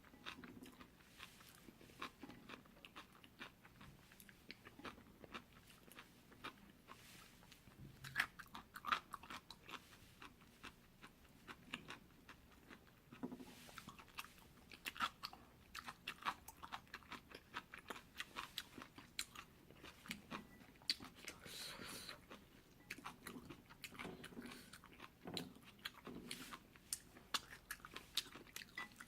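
Close-miked chewing of jjolmyeon, spicy chewy cold noodles: many sharp, wet mouth clicks and small crunches in irregular bursts.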